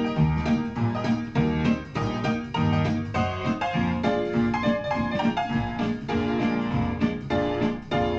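Solo piano playing a jaunty pub singalong tune to a steady beat, low bass notes alternating with chords.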